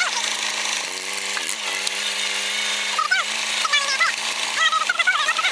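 Allis-Chalmers tractor engine running under load, its pitch dipping briefly about a second and a half in.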